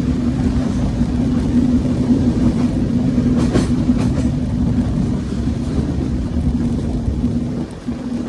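Passenger train running steadily: a continuous low rumble with a steady hum, and a few sharp clicks about three and a half seconds in.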